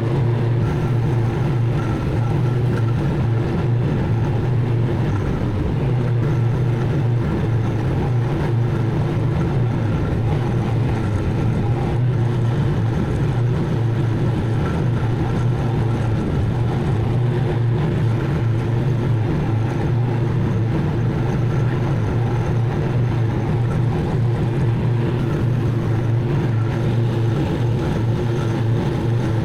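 Zero-turn mower engine running steadily under load with the deck cutting grass, a constant low drone that does not change through the stretch.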